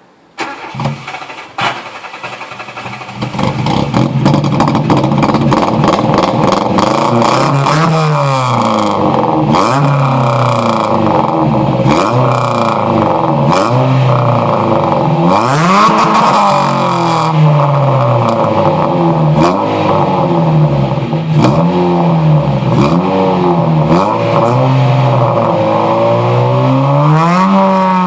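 Subaru engine starting for the first time after being swapped into a car: a few short, uneven sounds, then it catches and runs about three seconds in. It is then revved up and down again and again, the pitch climbing and falling every second or two.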